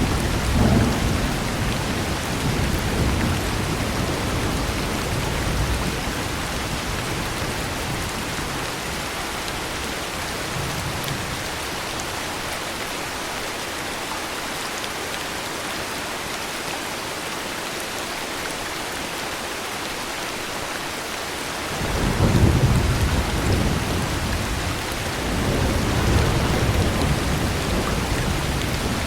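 Heavy rain falling steadily, with thunder. A rumble of thunder fades out in the first few seconds, and a fresh roll of thunder breaks in suddenly about 22 seconds in and rumbles on to the end.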